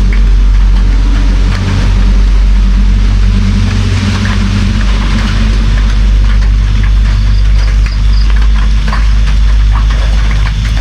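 Steady rain with drops ticking on a surface, over a continuous low hum.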